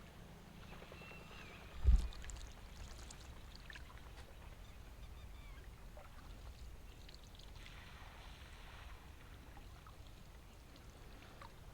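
Water lapping and dripping around a rowboat as it is rowed slowly, with one loud knock about two seconds in.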